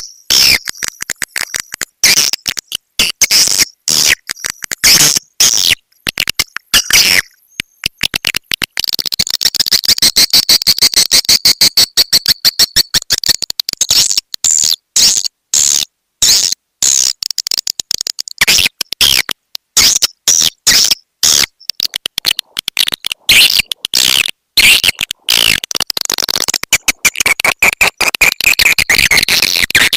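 Swiftlet lure call recording of the 'petir' kind: rapid, dense chirps and clicks of swiftlets, high-pitched, coming in quick bursts with short breaks between them.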